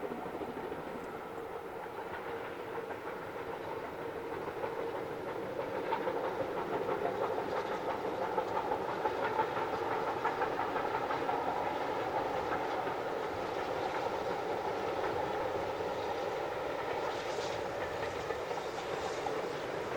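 Steam-hauled train running by on the rails, its wheels clattering over the rail joints; the sound grows louder about six seconds in and stays up.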